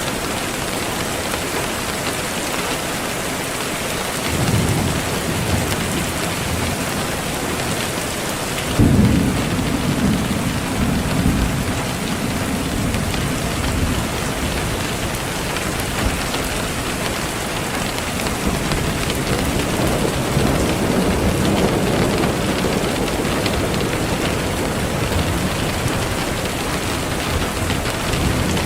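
Steady rain with rolling thunder: a low rumble swells about four seconds in, a louder one breaks about nine seconds in and rolls on for several seconds, and another comes around twenty seconds in.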